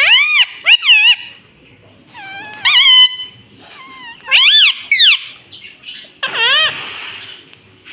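Pet ring-necked parrot giving a series of about five loud, shrill calls, each one rising and then falling in pitch.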